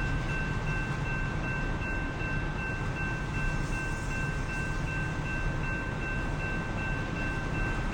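A train rolling past with a steady low rumble, while a grade-crossing bell rings on and on in a steady high pulsing tone.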